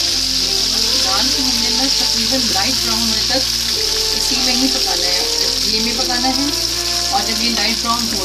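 Ground chana dal paste frying in ghee in a karahi: a steady sizzle as it is stirred, over background music.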